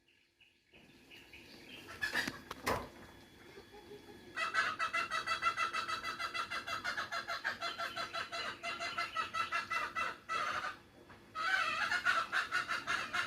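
Bird calls repeated rapidly, several a second, in a long unbroken run that stops briefly about ten seconds in and then starts again; a couple of sharp knocks about two seconds in.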